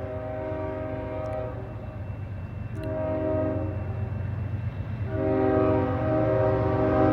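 Freight diesel locomotive's air horn sounding a chord: a long blast that stops about a second and a half in, a short blast about three seconds in, and another long blast from about five seconds in, the pattern of a grade-crossing signal. Under it the low rumble of the approaching diesel locomotives grows louder.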